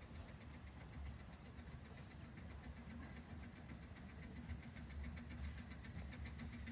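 Faint low rumble of a narrow-gauge railway train, with a rapid even ticking that grows a little louder about halfway through.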